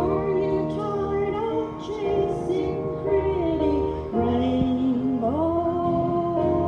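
A woman singing a slow song with piano accompaniment, holding long notes that glide between pitches.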